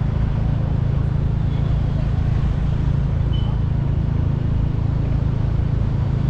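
Steady riding noise from a moving motorcycle: a constant low rumble of wind and engine with road traffic around, holding an even level throughout.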